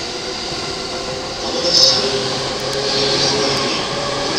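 JR E217 series electric commuter train pulling out of the platform, its cars rolling past with steady wheel-on-rail noise and a few steady motor hum tones under it.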